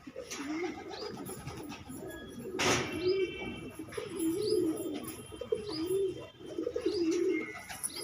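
Fancy pigeons cooing, a repeated wavering low coo, with short high chirps over it. There is a brief rustling burst about two and a half seconds in.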